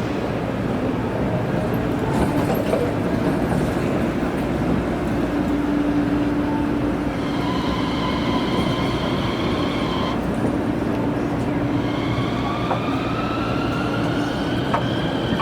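Toyama Chiho Railway city tram running, a steady rumble with a high whine in the middle that cuts off suddenly, then a whine that rises in pitch near the end.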